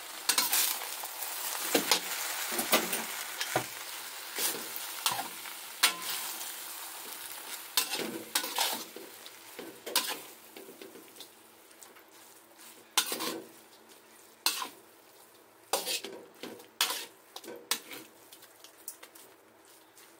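Chicken, napa cabbage and rice vermicelli stir-frying in a wok: a steady sizzle, broken again and again by the spatula scraping and clanking against the wok as the food is tossed. The sizzle fades as it goes on.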